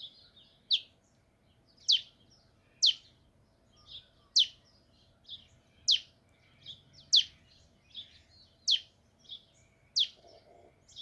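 New Holland honeyeaters calling: sharp, very short downward-sweeping calls about once a second, with softer chirps between them.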